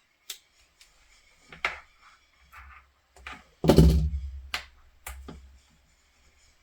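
Tools and small parts being handled on a workbench: a series of separate clicks and knocks, the loudest one a little past halfway through.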